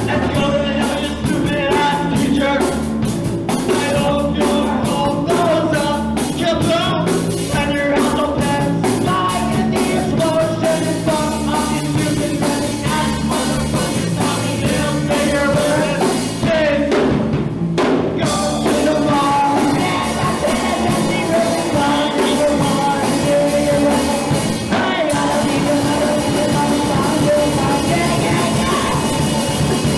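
Punk rock band playing live: electric guitar, bass and drum kit with a singer. The drums drop out for about a second just past the middle, then the band carries on.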